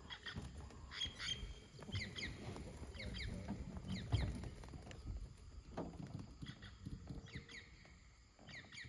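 Birds calling: short, high chirps that slide downward, often in pairs, repeating roughly once a second, over a low rumble.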